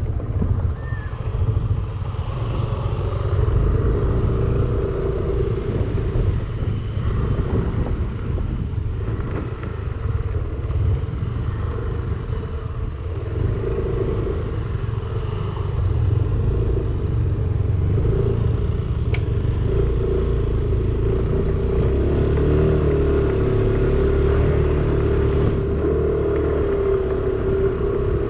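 Yamaha Aerox 155 scooter's single-cylinder engine running under way, a steady drone that wavers a little in pitch over a heavy low rumble.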